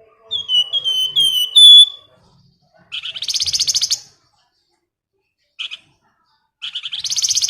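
Flamboyan songbird singing: a few clear whistled notes, the first one gliding down, then a fast rattling trill. After a short chirp, another rattling trill starts near the end.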